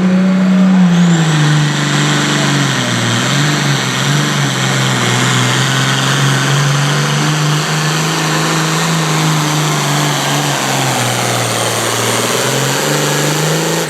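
Engine of a competition pulling vehicle running hard under load while pulling the sled; its pitch sags between about one and three seconds in, then holds steady.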